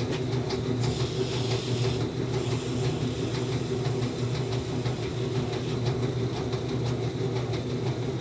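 A steady mechanical hum from a running motor, with a brief hiss about one to two seconds in.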